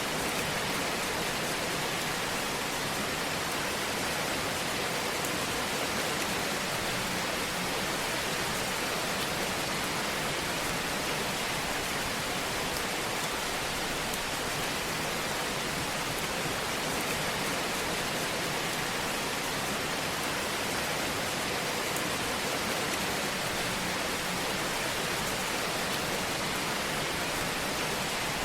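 Fire burning in a fireplace: a steady, even hiss with only faint crackles.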